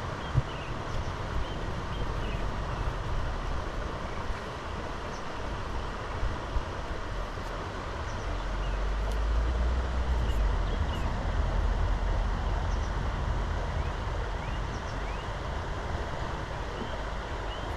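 Steady rush of river water, with wind buffeting the microphone in a low rumble that swells about halfway through. Two sharp knocks, one right at the start and one about six seconds in.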